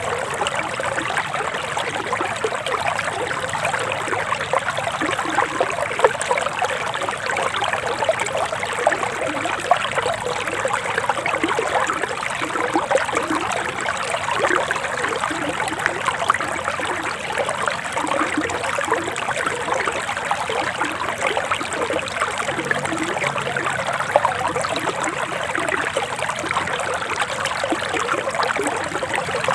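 Forest river water flowing, a steady babbling trickle with no pauses.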